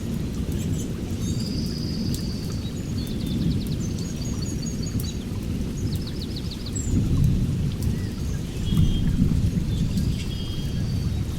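Several songbirds chirping and trilling in short phrases over a continuous low rumble that swells twice in the second half.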